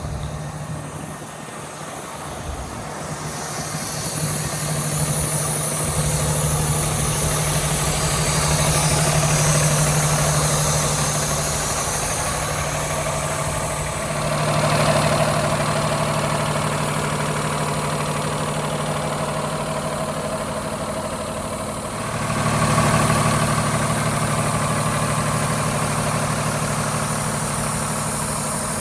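Diesel engine of a 2013 Freightliner 108SD truck running at idle. Its sound grows louder in steps about four, fourteen and twenty-two seconds in.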